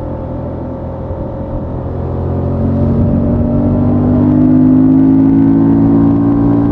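Honda XL750 Transalp's parallel-twin engine running through its stock exhaust, heard from on the bike. About two seconds in it comes onto the throttle and pulls, getting louder with a slowly rising pitch.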